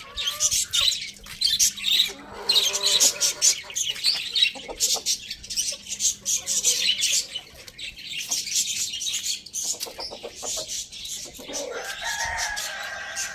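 Busy, rapid twittering of many small birds, with a short pitched call early on and a rooster crowing in one long held call near the end.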